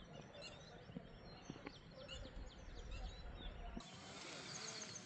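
Birds chirping over steady background noise; about four seconds in the low background noise cuts off abruptly and a quick run of high chirps follows.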